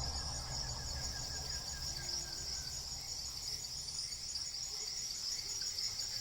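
Insects keeping up a steady, unbroken high-pitched drone, with a faint low hum under it that fades out about halfway through.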